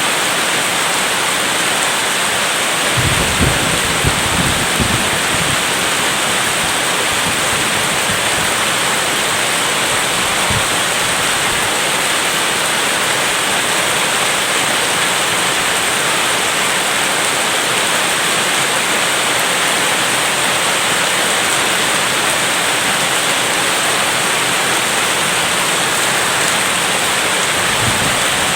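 Steady, dense rain, with a brief low rumble of thunder about three seconds in and a fainter one near the end.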